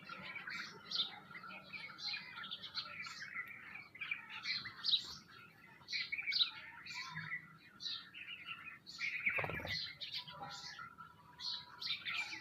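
Many small birds chirping in a continuous dense chatter of short, high chirps. A brief louder rustling thump comes a little past nine seconds in.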